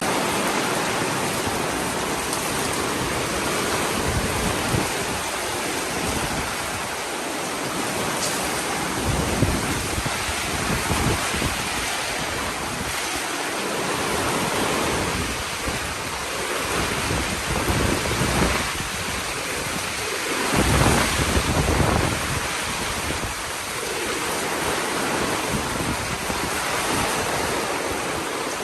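Heavy rain pouring steadily in a thunderstorm, with low rumbles swelling up a few times, around ten seconds in and again about twenty seconds in.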